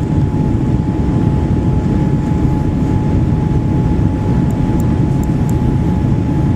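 Loud, steady rumble with a constant mid-pitched whine from a Boeing 787-8 Dreamliner's GEnx turbofan engines, heard from inside the cabin in flight.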